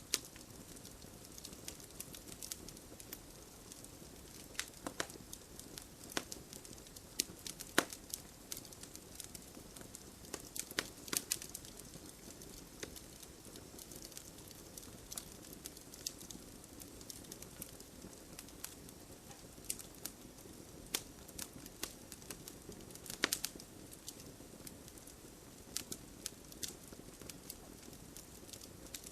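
Campfire burning, steady low hiss with frequent irregular sharp crackles and pops from the burning wood, a few louder pops standing out.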